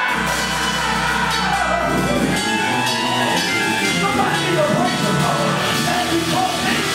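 Gospel church music: sustained keyboard chords over a held bass note, with drums and a singing voice.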